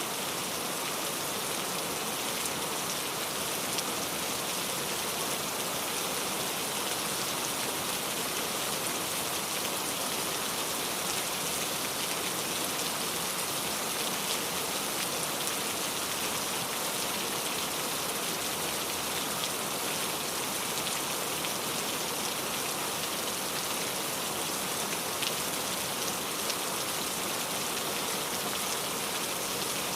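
Steady rain falling, a continuous even hiss with scattered individual drop ticks on a hard surface.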